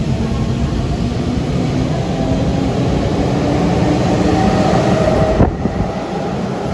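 Hanshin Railway electric train running, its traction motor whine rising slowly in pitch over the rumble of wheels on rail as it gathers speed. A single sharp knock about five seconds in.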